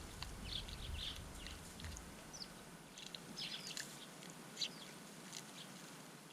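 Small garden birds chirping: scattered short, high calls in quick clusters, with a low rumble during the first two seconds.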